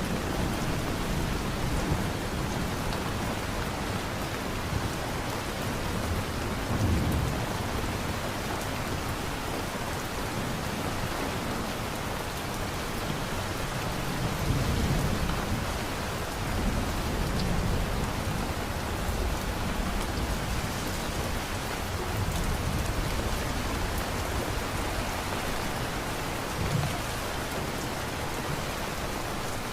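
Steady heavy rain falling in a thunderstorm, with low rolls of thunder swelling up several times, the strongest about 7 s and 15 s in.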